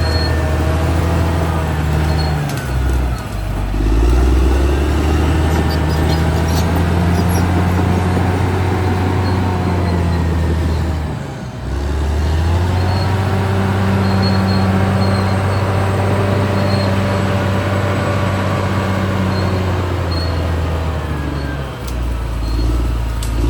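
Caterpillar D6R XL bulldozer's diesel engine running hard under load. Its pitch sags and recovers about three times as the load changes.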